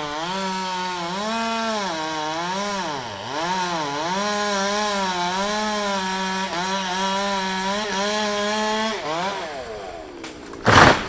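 Chainsaw running at full throttle through a branch, its engine pitch dipping and recovering as it bites into the wood, then falling away about nine seconds in as the throttle is released. A loud crash follows near the end as the cut branch hits the ground.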